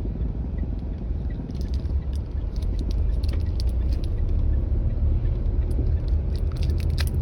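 Manual-transmission car's engine running as the car is driven in low gear, a steady low rumble that grows a little louder about three seconds in.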